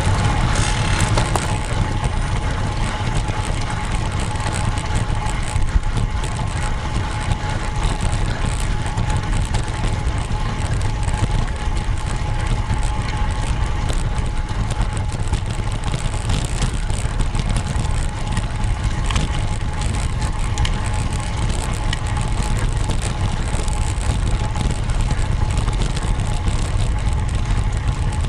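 Road bike ride: steady wind rumble on the camera microphone, with a thin steady hum.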